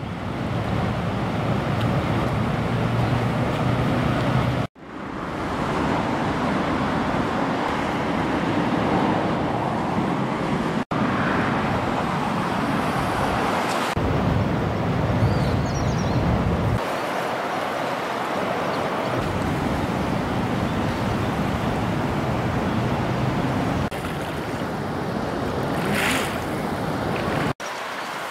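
The swollen, flood-high river rushing, a steady noise of fast water mixed with wind buffeting the microphone. It comes in several stretches cut off abruptly by edits.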